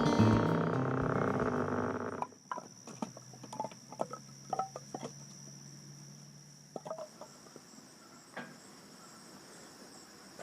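Background music that cuts off about two seconds in, followed by insects buzzing steadily outdoors with scattered light clicks and knocks.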